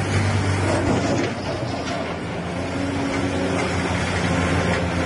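Diesel engines of Doosan crawler excavators running steadily under work, a continuous low hum with a few held tones as one machine raises its boom.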